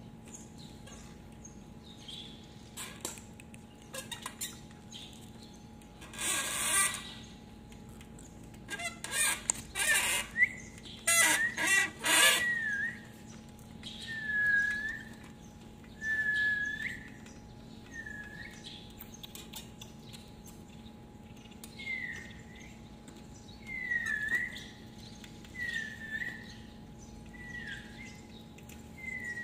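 A small bird calling with short, dipping chirps about every two seconds, after several bursts of rustling noise in the first half.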